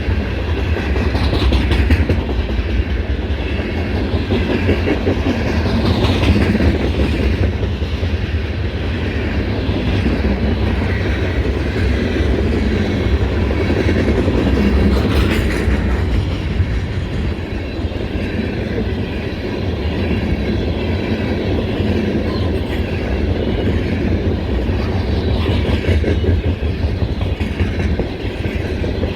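Canadian National ore train rolling steadily past: a continuous rumble of the cars with wheels clattering on the rails.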